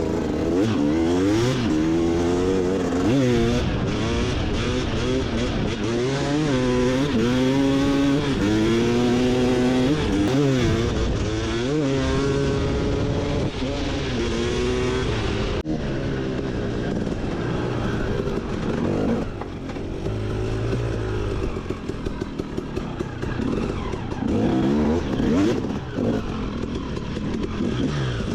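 Motorbike engine on the move, its pitch rising and falling over and over as it revs up and eases off through the gears. There is an abrupt break about two-thirds of the way through, after which the engine carries on.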